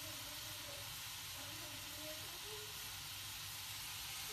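Steady hiss, with faint voices in the background.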